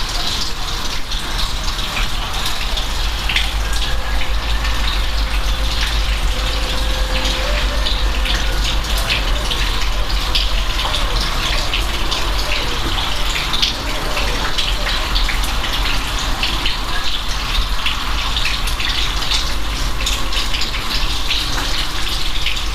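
Steady rain falling, a constant hiss with many individual drops ticking through it and a low rumble underneath.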